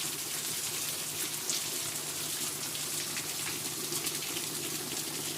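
Heavy rain falling steadily, with water running and pouring.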